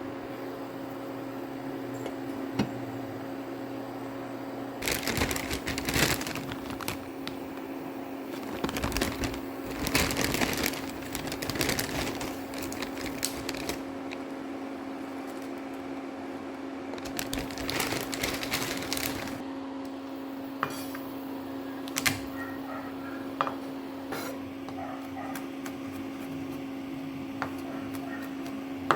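Kitchen handling sounds over a steady appliance hum: three spells of rustling and clattering, then a few sharp clicks and knocks near the end.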